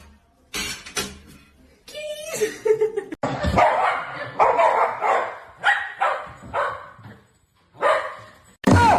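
A dog barking repeatedly in a string of short calls, several in quick succession in the middle.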